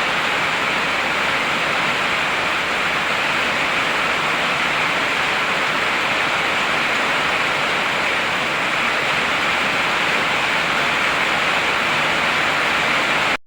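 Heavy rain falling, a steady dense hiss with no thunder, that cuts off suddenly near the end.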